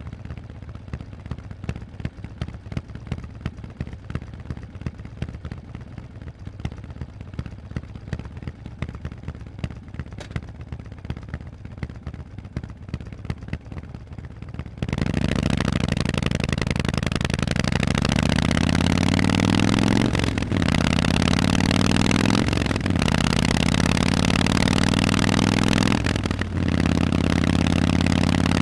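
Harley-Davidson Forty-Eight's 1200 cc V-twin through loud Vance & Hines exhausts, idling with an uneven pulsing beat. About halfway through it opens up loud and pulls away, the pitch rising and falling, broken by three short dips like gear shifts.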